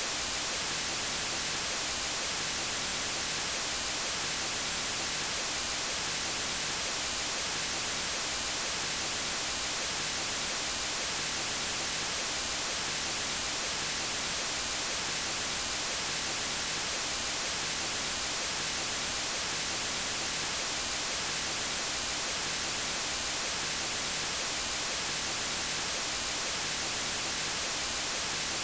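Steady white noise: a constant, even hiss with no breaks or changes.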